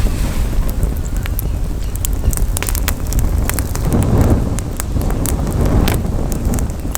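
Campfire crackling, with frequent sharp pops and snaps, over a steady low rumble of wind on the microphone that swells twice.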